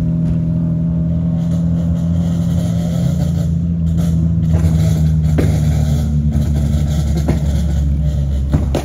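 Car engine holding a steady pitch while cruising, with road noise, heard from inside the cabin.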